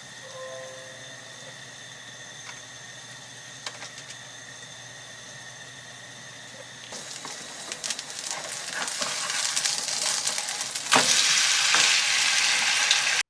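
Food frying in a hot pan. A steady low hum with a few faint tones runs first; about seven seconds in a sizzle starts and grows louder, with a sharp knock about eleven seconds in, and the sound cuts off abruptly at the end.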